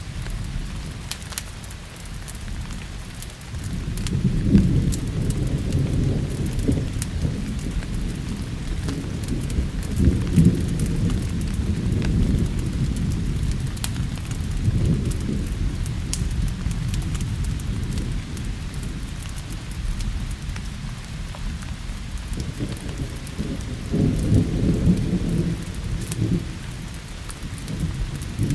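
Thunder rumbling low in several rolling swells over steady rain, with scattered sharp crackles of a wood fire.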